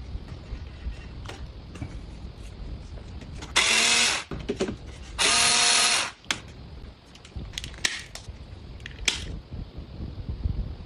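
Handheld electric power tool run in two short bursts of about a second each, a pitched motor whine, among light clicks and knocks of handling.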